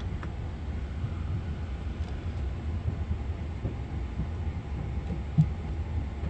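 Steady low background rumble with no speech, and one short soft knock about five and a half seconds in.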